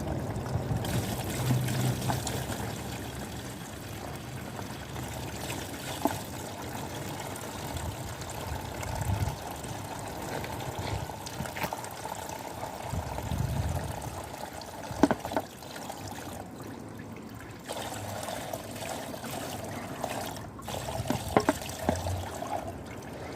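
Oil pouring and trickling steadily out of a Suzuki GS850 engine side casing into a basin, with a few light clicks.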